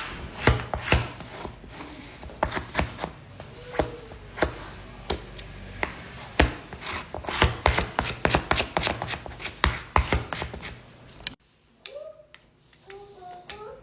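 Rapid, irregular clicks and taps of small hand tools working on a smartphone, stopping abruptly about eleven seconds in.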